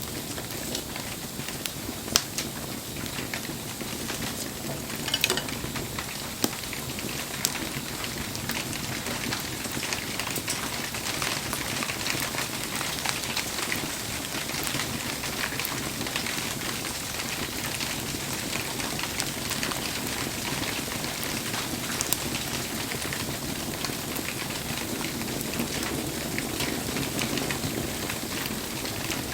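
Wood campfire crackling, with sharp pops now and then, under steady falling rain.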